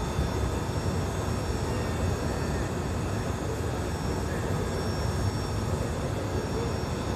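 An engine running steadily on a test run: a constant rumble with faint steady whining tones above it, holding one level throughout.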